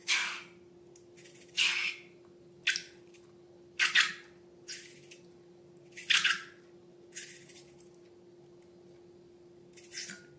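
Slime being squeezed and pressed by hand: about eight separate wet squelches, irregularly spaced about a second apart, over a faint steady hum.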